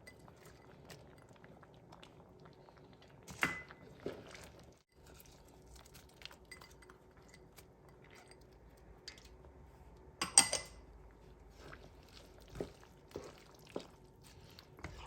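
Scattered light clinks and knocks of kitchen utensils against a cooking pot, with two louder knocks about three and a half and ten seconds in, over a faint steady hum.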